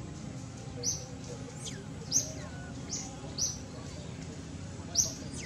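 A small bird giving short, sharp chirps, about six in a few seconds at uneven spacing, with a couple of quick falling whistles between them.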